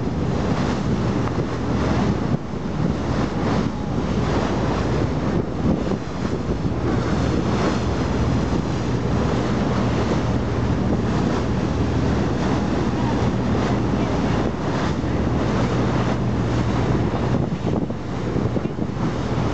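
Wind buffeting the microphone over sea water and the steady low drone of a boat's engine.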